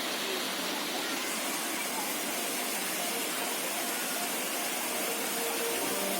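Steady rush of falling water at a waterfall, with faint voices of people in the background. Music comes in near the end.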